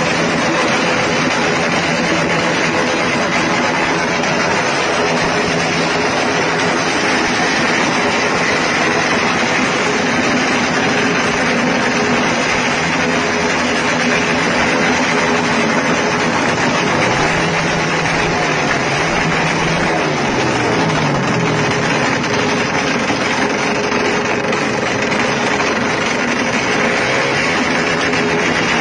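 Motorcycle engine running loudly through the exhaust under test, a steady rasp whose pitch dips and rises a little about two-thirds of the way through.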